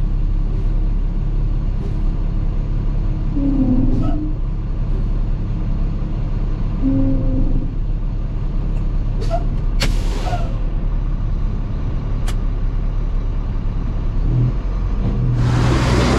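Diesel farm engine running steadily, with a few short clicks and tones in the middle. A louder rushing noise sets in near the end.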